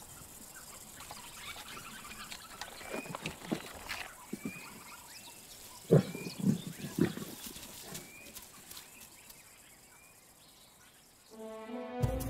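Lions grunting and growling while feeding on a carcass, loudest in a few short low grunts about six to seven seconds in, with a bird repeating a short chirp in the background. Music comes in near the end.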